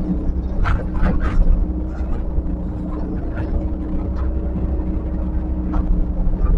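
Diesel engine of heavy earthmoving machinery running steadily, with a few short knocks and scrapes from the machine's work about a second in and again later.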